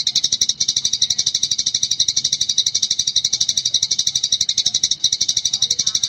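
Eurasian tree sparrow chattering nonstop in the rapid 'gecor' style: a steady, unbroken run of sharp high chirps, about ten a second.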